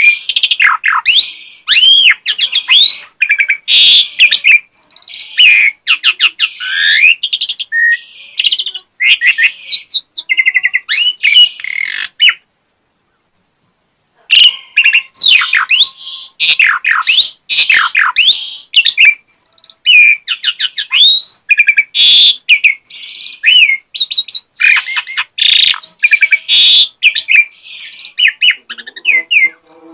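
Asian pied starling (jalak suren) singing a long, varied song of rapid whistles, rising and falling glides and harsh chattering notes, mixing in mimicked calls from its repertoire. The song breaks off for about two seconds near the middle, then resumes.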